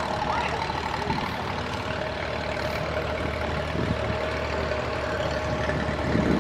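A motor vehicle engine idling steadily, a low hum with a steady whine over it.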